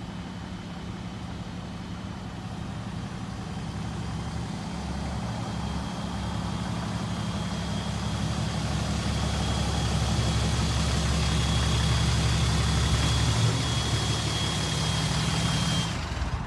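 2010 Dodge Ram 2500's 6.7-litre Cummins inline-six turbo diesel running steadily at idle, with a thin high whine over the engine note, growing gradually louder and cutting off suddenly shortly before the end.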